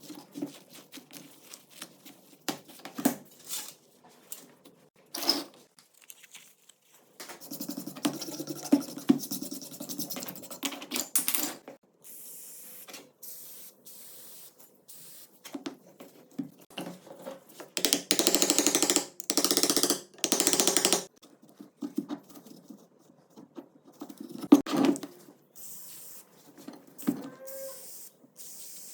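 Hand work on the metal parts of an old 12-bore shotgun: scattered clicks and knocks of parts being handled, with stretches of steady rubbing or hissing noise. The loudest of these lasts about three seconds, about two thirds of the way in.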